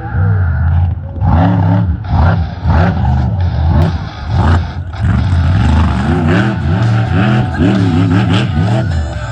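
Monster truck engine revving hard during a freestyle run, its pitch repeatedly climbing and dropping as the throttle is worked.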